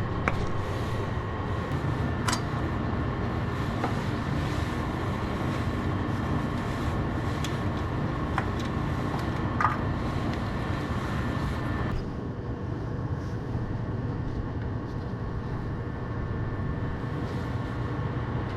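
John Deere 170 skid steer's engine being started cold, a steady mechanical drone with two thin steady tones and a few sharp clicks. The sound thins out about twelve seconds in.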